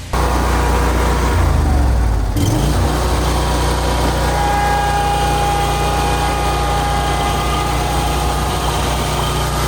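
Gas commercial lawn mower engine running steadily at a constant speed, with a brief rise and fall in pitch about two seconds in.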